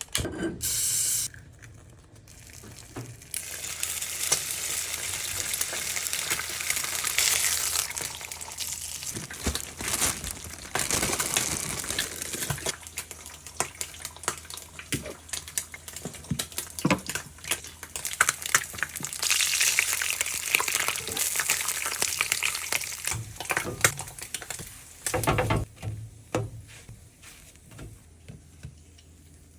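Breakfast cooking: food sizzling in a frying pan in two long stretches, with many short clicks and knocks of kitchen utensils between them.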